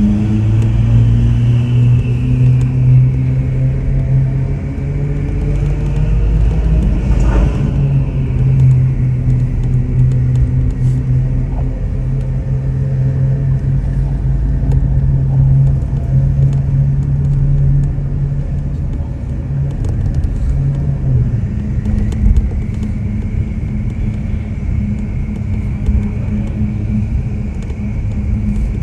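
Ferrari 488 Pista's twin-turbo V8 through a custom Ryft exhaust, running at steady revs with a low, even drone. There is a short sharp change in the note about seven seconds in, and the engine note settles to a different steady pitch after about twenty-one seconds.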